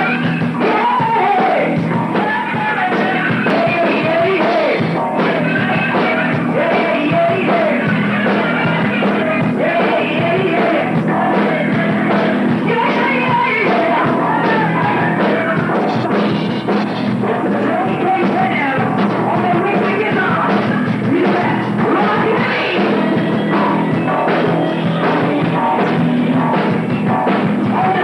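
Heavy metal band playing live in rehearsal, with drum kit and a voice singing over the dense band sound. The recording is loud and steady, and its top end is cut off, so it sounds muffled.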